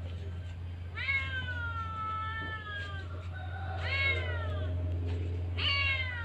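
Three long mewing animal calls, each sliding down in pitch, coming about a second in, near four seconds and near the end, over a steady low hum.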